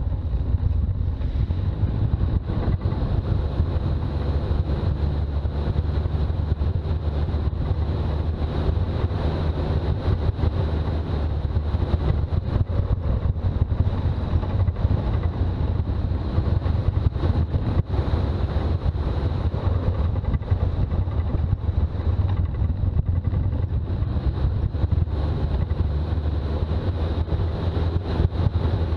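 Toyota BJ40 Land Cruiser on the move: a steady, unbroken drone of engine and road noise.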